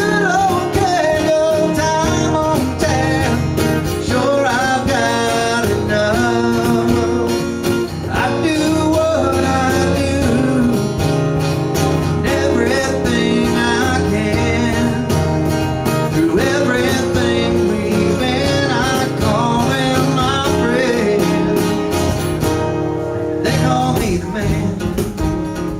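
A country song performed live: a voice singing over strummed acoustic guitar, with a cajon keeping a steady beat. The singing drops out near the end, leaving the guitar.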